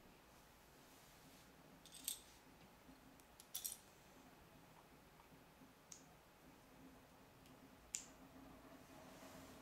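Plastic Lego pieces being handled and clicked together: a few short, sharp clicks spaced a couple of seconds apart over faint room tone.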